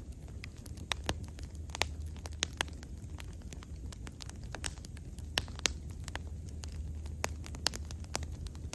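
Wood bonfire burning, crackling with many irregular sharp pops over a low steady rumble.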